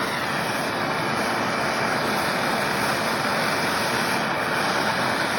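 Brazing torch flame hissing steadily and evenly, heating a steel muffler and deflector to a dull cherry-red glow for silver brazing.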